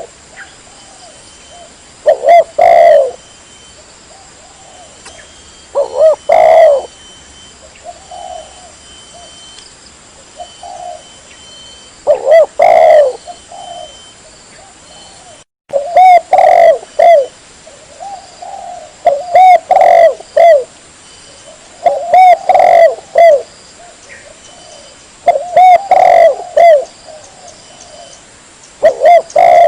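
Spotted dove (tekukur) cooing: loud phrases of rounded coos repeat every three to four seconds, with softer coos between them. The sound cuts out for a moment about halfway through.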